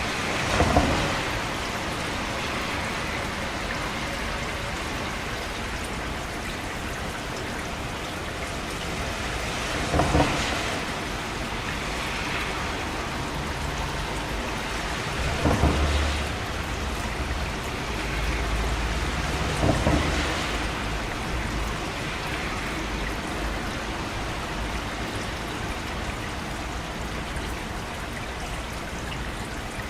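Steady rain falling, with four louder claps about a second, ten, fifteen and twenty seconds in, and a low rumble of thunder between about fifteen and twenty seconds.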